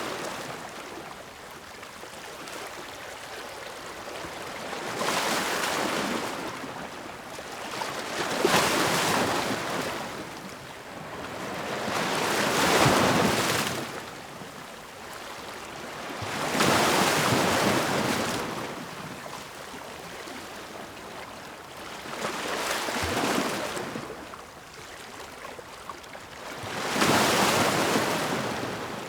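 Ocean waves breaking on the shore, about six waves over the stretch, each swelling up and washing out over a few seconds between quieter lulls of surf hiss.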